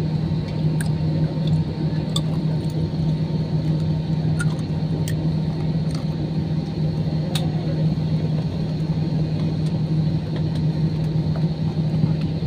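Steady cabin drone inside an Airbus A320 on the ground, its engines at idle and the air conditioning running, with a strong low hum and a few faint clicks from the cabin.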